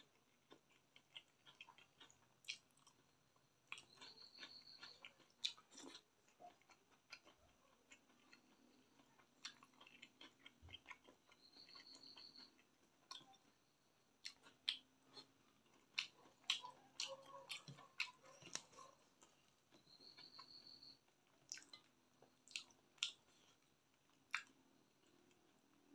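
Close-miked chewing and lip-smacking of a mouthful of rice and chicken curry eaten by hand, with many sharp, irregular wet clicks. A short, faint high tone recurs about every eight seconds.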